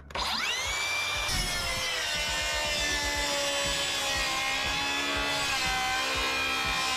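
Makita XGT 40V cordless circular saw starting up, its whine rising to full speed in about a second, then running steadily with slight dips in pitch as it cuts along a guide rail.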